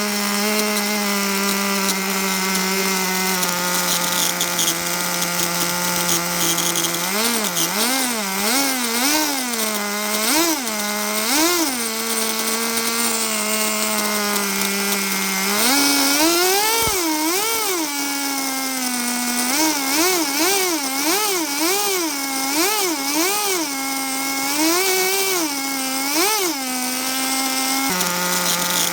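Small .16 nitro engine of a MegaTech P190 RC car running at a steady idle, revved in quick throttle blips, one to two a second. There is a run of blips about seven seconds in and another through most of the second half.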